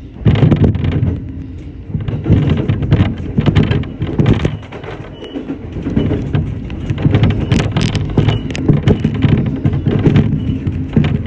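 Shinano Railway SR1 series electric train running, heard from the front of the train: a loud, uneven low rumble with frequent knocks and clatter from the wheels on the track.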